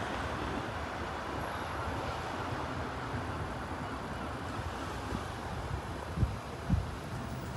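South Western Railway Class 444 electric train moving away along the line, its running noise fading, with wind rumbling on the microphone. Two short low thumps come near the end.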